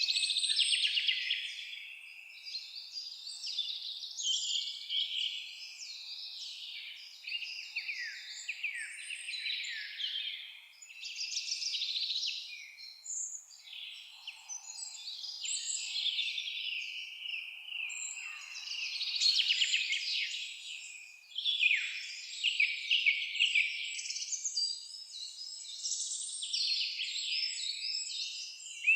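Several songbirds singing and chirping at once, a steady overlapping chorus of quick trills and whistled notes.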